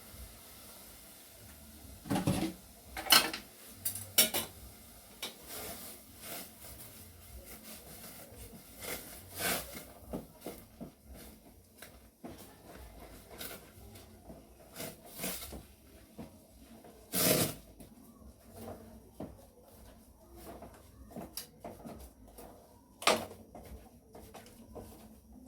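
Irregular knocks and clatter of kitchen things being handled, like pots, dishes and drawers, with a handful of sharper bangs spread through it.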